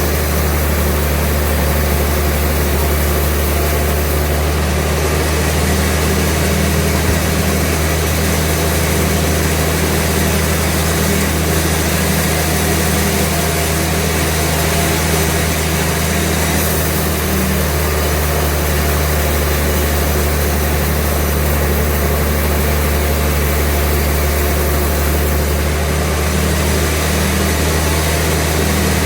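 Sawmill running: a steady low engine hum with an even hiss above it, unchanging in level throughout.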